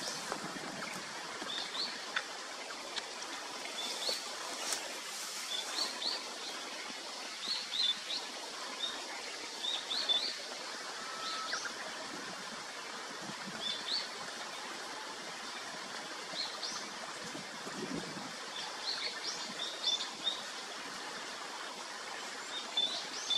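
Short, high bird chirps, each a quick upward flick, repeated in small clusters every second or two over a steady background hiss.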